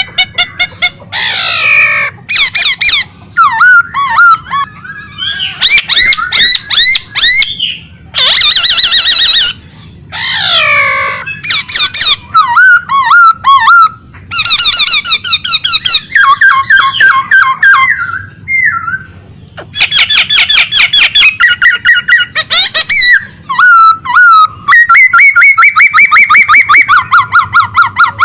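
A pet songbird singing loudly and without let-up: fast runs of repeated chirps, trills and sweeping whistles in phrases a few seconds long, with brief pauses between them.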